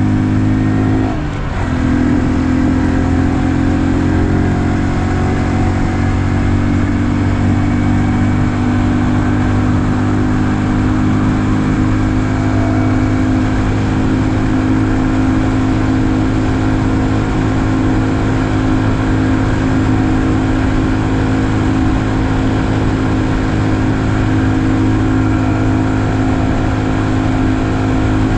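A 2020 Honda Super Cub's single-cylinder engine running steadily under way. About a second in there is a brief drop in level, and then the engine note settles slightly lower and holds.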